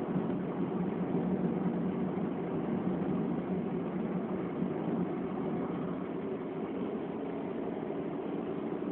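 Nissan 1.4-litre car engine running with tyre and road noise while driving, heard from inside the cabin: a steady drone that eases off slightly in the second half.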